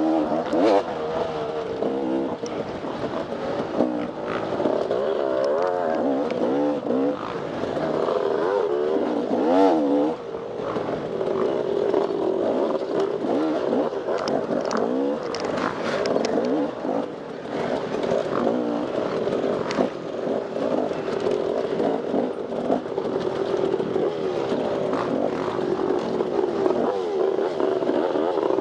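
Off-road dirt bike engine revving up and down continually as it is ridden, its pitch rising and falling with the throttle, with a few short knocks.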